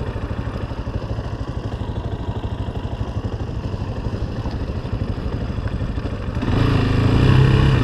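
Off-road vehicle engine running at low revs with a steady, fast putter, picking up revs and growing louder about six and a half seconds in.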